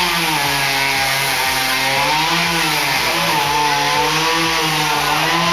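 Two-stroke chainsaw running at high revs in a cut, its pitch sagging slightly and recovering a couple of times under load.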